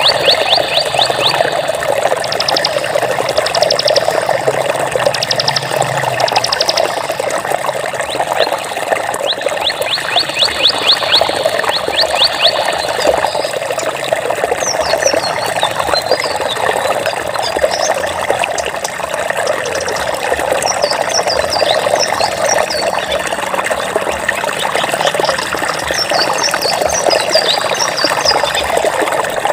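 Steady rush of flowing water, with high, rapid trills over it in roughly the first half and short high chirps in the second half.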